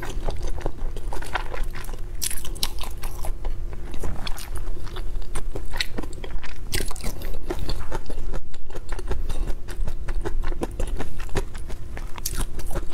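A person chewing and biting food close to a lapel microphone, with dense, irregular small crunches and crackles throughout.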